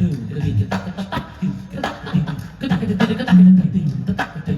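Rhythmic percussion: sharp strokes in quick succession over a low pitched tone that shifts in pitch.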